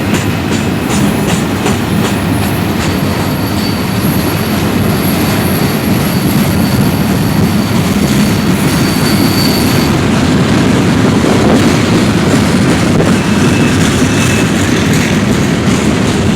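Freight cars of a manifest train rolling past with a steady rumble, wheels clicking over the rail joints. Thin, high wheel squeal rings out from about two seconds in and stops about ten seconds in.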